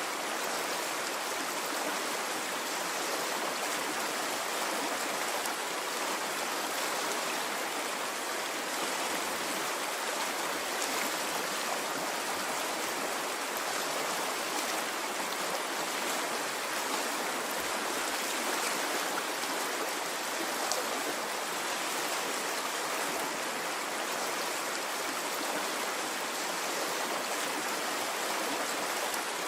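A stream of water flowing steadily, an even rushing and babbling with no rise and fall.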